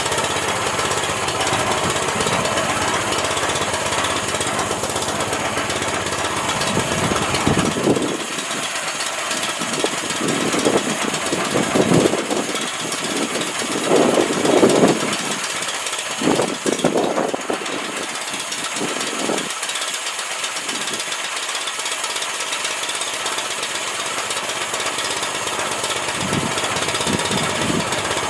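Home-built band sawmill running, its engine making a steady mechanical drone with a string of louder, irregular surges through the middle.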